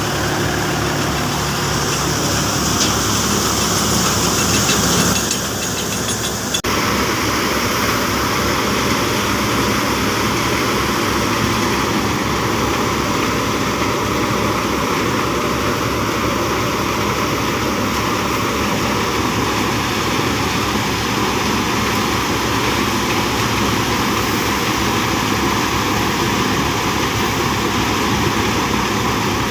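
Mahindra 275 tractor's diesel engine running steadily. About six and a half seconds in, the sound changes abruptly as a higher hiss drops away, and the engine carries on evenly.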